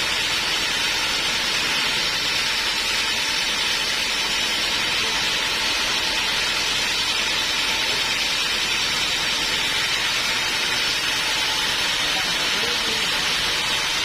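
Sawmill band saw running steadily, a continuous even hiss.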